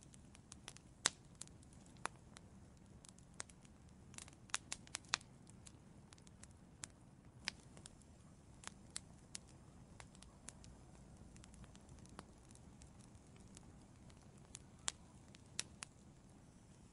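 Wood fire burning in an outdoor fireplace: irregular crackles and sharp pops of the burning logs over a low, steady rumble of the flames, with a quick cluster of snaps about four to five seconds in.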